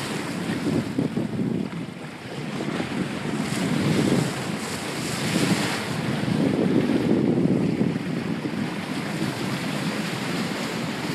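Wind buffeting a GoPro's microphone in uneven gusts, over the rush of water past a moving boat.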